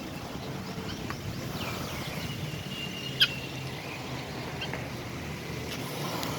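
Turkey hens calling softly, with one short sharp call about three seconds in, over a steady low background hum.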